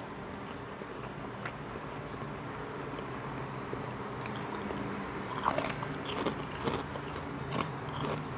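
A person chewing and biting food close to the microphone, with sharp crunches of crisp chicharon (pork rinds) that come thicker in the second half. A steady low hum runs underneath.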